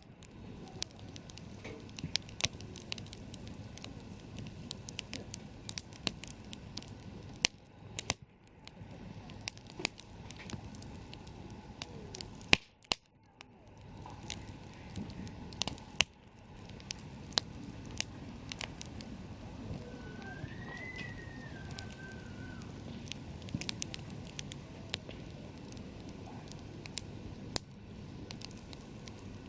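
Wood campfire crackling, with sharp irregular snaps and pops over a low steady rumble of the flames. About twenty seconds in, a faint short whistle rises and falls.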